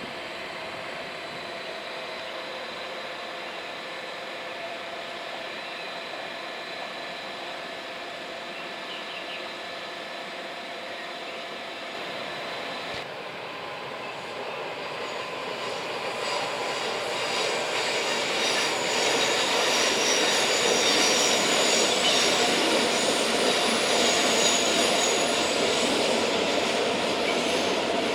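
Train passing with its wheels squealing on the rails, steady high squeal tones over a rushing rumble that grows louder from about halfway through.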